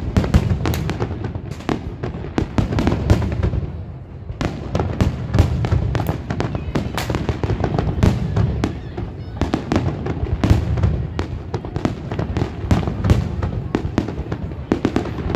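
Fireworks display with shells bursting in quick succession: a dense run of bangs and crackles over a continuous low rumble, easing briefly about four seconds in.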